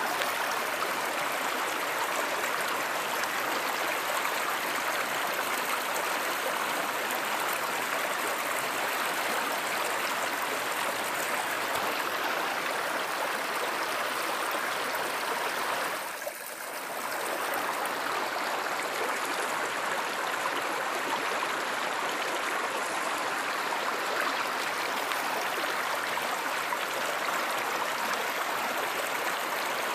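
Steady rush of a flowing stream, with a brief dip in level a little over halfway through.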